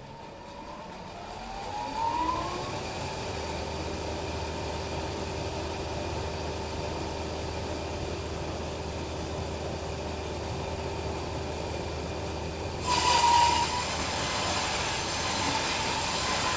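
Bandsaw sawmill winding up to speed over the first two seconds, then running steadily with a hum. About thirteen seconds in the blade bites into the log and a loud, hissing cutting noise with a brief squeal comes in and keeps going.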